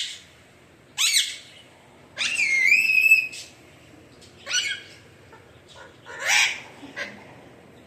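Alexandrine parakeet calling: a string of short loud calls, with one longer call of about a second between two and three seconds in.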